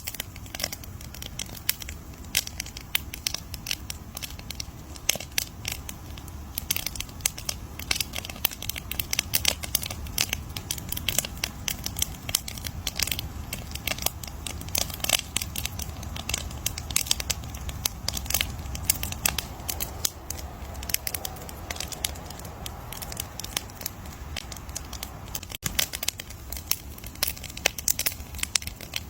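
Wood fire crackling: dense, irregular pops and snaps over a steady low rumble of the flames.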